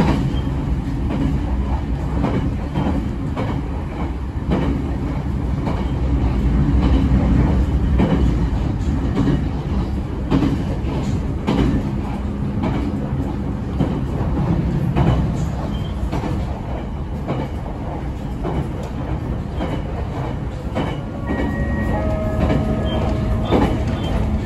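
Running sound inside an Abukuma Express AB900 series electric train, which has a Mitsubishi IGBT VVVF inverter: a steady rumble of wheels on the rails with frequent clicks from rail joints. A few steady tones come in near the end.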